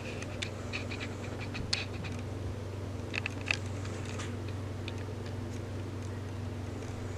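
Light scratching and clicking of a paintbrush working paint onto a 3D-printed sword, in scattered short strokes mostly in the first half, over a steady low hum.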